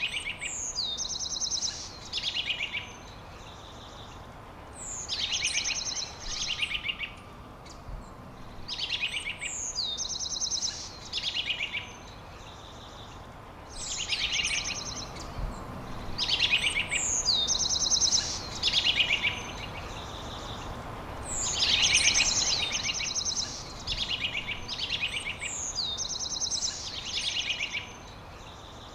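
A songbird singing the same phrase over and over, about every three to four seconds: a high downward sweep, then a fast, rattling trill that drops lower. Under it is a faint, steady outdoor background noise.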